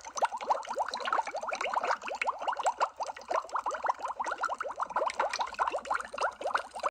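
Underwater bubble sound effect: a dense, continuous stream of small bubbles, each a short rising blip, many every second at a steady level.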